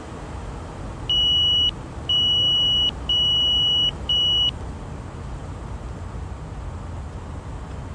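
Four high electronic beeps in quick succession, the first three longer and the last short, over the steady low noise of an aircraft cockpit.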